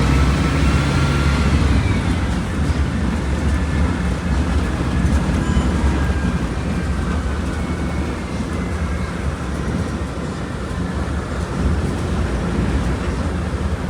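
Volkswagen Volksbus 17.230 Euro 6 bus under way: a steady diesel engine drone with road noise, and a faint whine shifting in pitch in the first couple of seconds.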